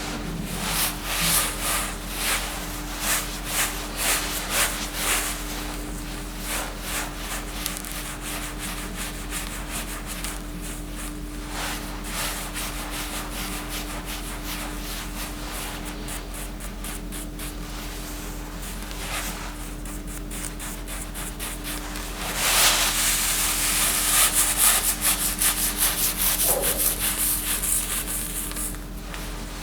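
Repeated rubbing or scraping strokes over a steady hum. The strokes become louder and denser about three-quarters of the way through.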